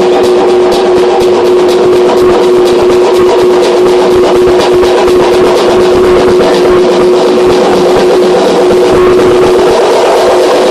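Loud dance music from a DJ set at a club party, with a steady beat and a held note running underneath.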